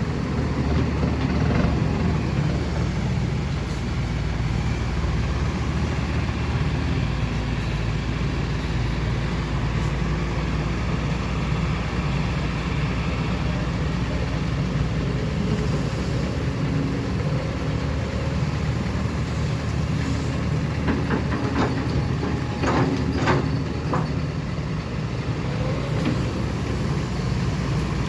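Heavy diesel engine running steadily, with a few short sharper sounds about three-quarters of the way through.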